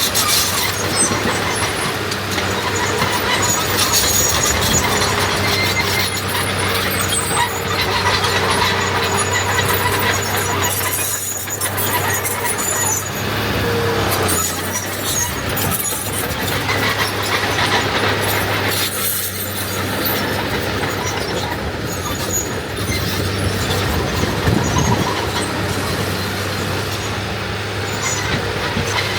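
Heavy diesel earthmoving machinery running steadily under load, with metallic squealing and clatter over the low engine hum.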